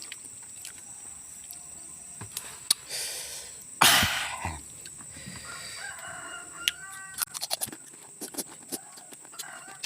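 Chickens calling and clucking, with a loud squawk about four seconds in followed by a run of short pitched clucks. Short crisp clicks of crunchy fruit being bitten and chewed come in between, over a steady high whine.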